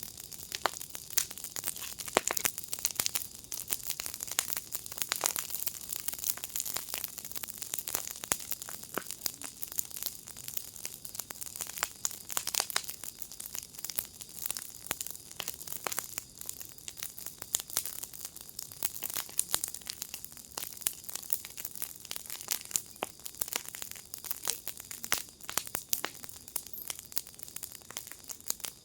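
Wood fire in a firepit crackling steadily, with dense, irregular pops and snaps over a soft hiss.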